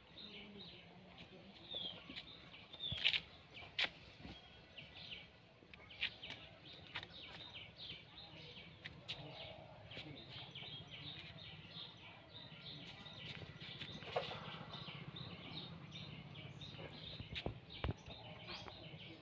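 Birds chirping continuously in quick, short chirps, with a few sharp clicks.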